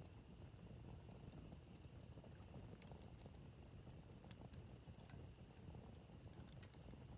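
Wood campfire crackling faintly, with scattered sharp pops over a low rumble.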